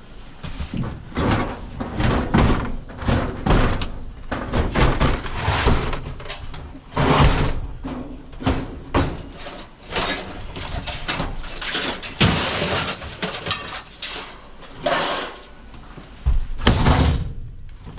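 Irregular series of bangs, knocks and clatter, several close together at times, with the loudest hits about seven, twelve and seventeen seconds in.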